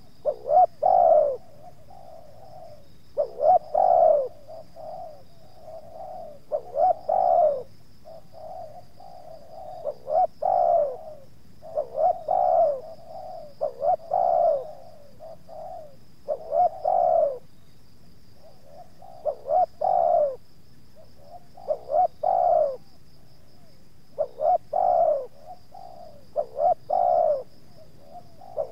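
Spotted dove (tekukur) cooing over and over: each phrase is a few short notes ending in a longer falling coo, repeated about every two to three seconds.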